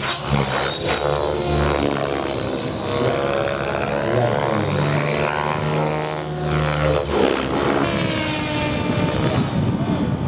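Radio-controlled helicopter, an Align T-Rex 700 Pro DFC, flying 3D aerobatics. Its rotor and drive make a continuous buzz whose pitch wavers up and down as the manoeuvres load the rotor.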